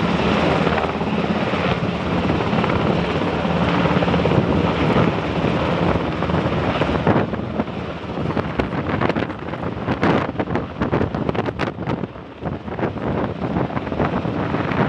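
HH-60 Black Hawk helicopter hovering low over the water, a steady rotor and turbine drone. After about seven seconds the sound turns choppy and uneven, with gusts hitting the microphone.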